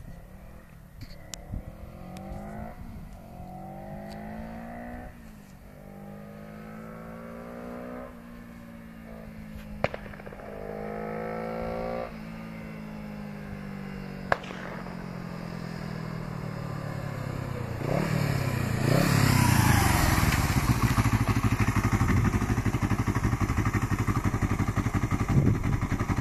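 Yamaha XS 400 parallel-twin motorcycle accelerating through several gears, its engine pitch rising and dropping back with each shift as it comes closer and grows louder. From about 18 seconds in it is close and loud, with a full, low exhaust rumble.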